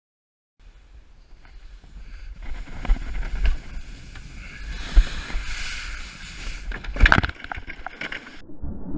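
A canoe sledding down a bank toward the river: a rising scraping hiss from the hull with several hard knocks, and wind buffeting the microphone. The sound starts about half a second in and stops abruptly near the end.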